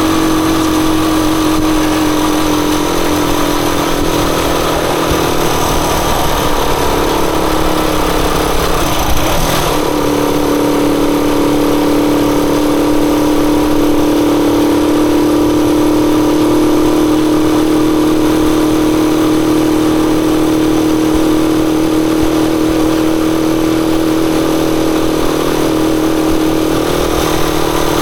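Rusi Chariot 175 motorcycle engine running under way at a steady pace. Its pitch drops off a few seconds in, picks up again about ten seconds in, and then holds steady.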